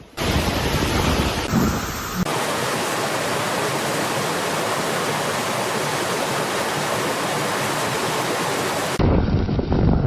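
Loud, rushing storm noise of wind and water, an even roar across all pitches that changes abruptly about two seconds in and again near the end, where gusts buffet the microphone.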